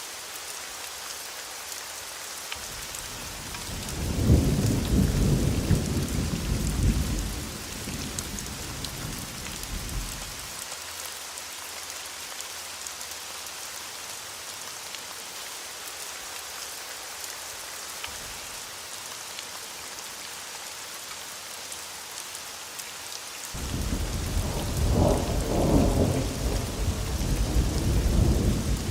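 Steady rain hissing, with two long rolls of thunder: one rumbling up about a third of the way in and dying away, another starting suddenly near the end and still rumbling as it closes.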